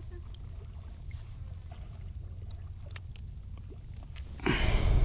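Insects chirring steadily, a high-pitched trill with rapid even pulses, over a low rumble. About four and a half seconds in, a loud brief rush of noise cuts across it.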